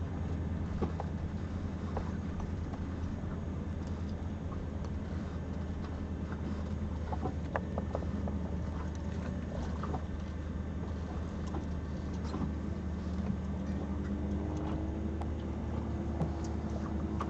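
A boat under way, with a steady low drone and scattered knocks and slaps from the hull and water.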